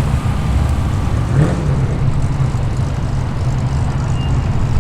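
A car's engine running at low speed as it rolls in, a steady low rumble.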